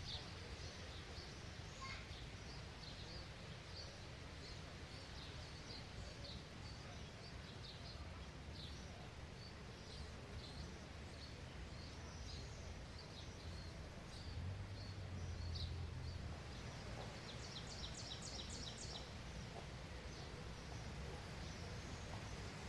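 Small birds chirping and calling over a steady outdoor background hiss, with a quick rapid run of repeated notes about three-quarters of the way through and a brief low rumble a little before it.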